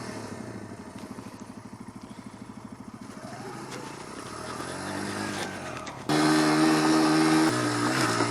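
Motorcycle engines running, with a pulsing rhythm and revs rising and falling. About six seconds in, a motorcycle engine much closer and louder cuts in with a steady tone, which steps down in pitch about a second and a half later.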